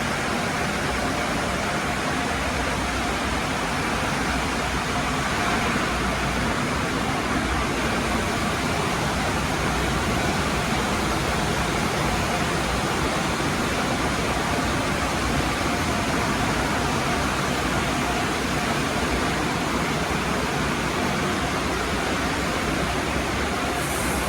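Automatic tunnel car wash running: a steady rush of spraying water and wash machinery that holds without a break.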